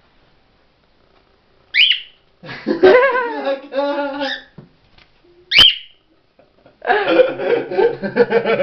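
Cockatiel giving two loud, short chirping calls, about two seconds in and again past the middle, with a person's voice breaking in between them and from near the end.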